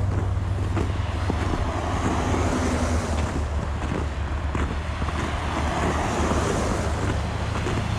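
Wind rumbling on the microphone, with road traffic going by on a highway. The sound stays at a steady level throughout.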